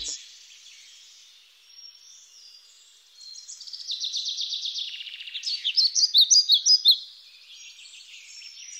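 Birds singing and chirping, with quick trills about three seconds in and fast runs of repeated chirps between about four and seven seconds in.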